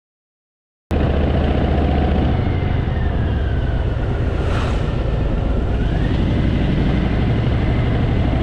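Harley-Davidson Fat Boy's V-twin engine running steadily under way, with a dense low rumble. It cuts in abruptly about a second in.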